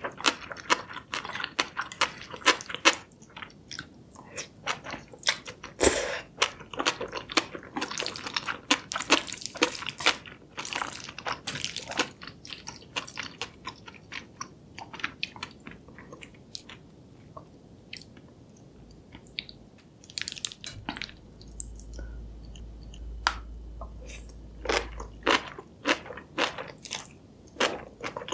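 Close-miked ASMR eating: chewing of sauce-coated black bean noodles (jjajangmyeon), with many sharp wet mouth clicks and noodles drawn into the mouth. The sounds thin out past the middle, with a few seconds of low rumble, then pick up again near the end.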